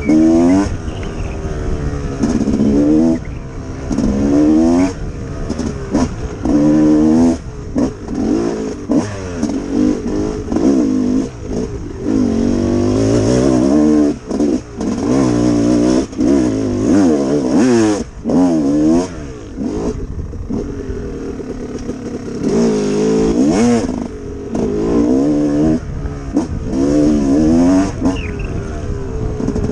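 Yamaha YZ250X two-stroke single-cylinder dirt bike engine being ridden, revving up in short repeated bursts every second or two as the throttle is opened and shut, with the noise of the bike moving over the trail underneath.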